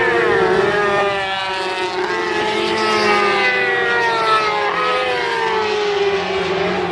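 Several racing superbikes' engines at high revs, their notes falling steadily in pitch.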